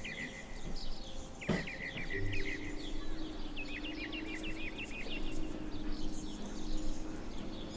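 Small birds chirping in short repeated runs over a steady low hum, with a single sharp knock about one and a half seconds in.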